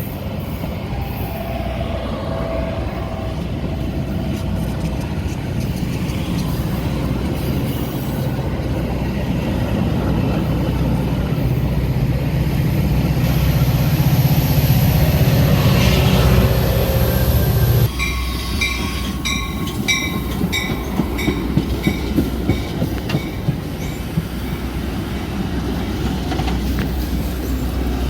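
Metra commuter train rumbling steadily, building in loudness. About eighteen seconds in the sound changes abruptly, and a quick repeated ringing, about two strokes a second, plays for several seconds over a lower rumble.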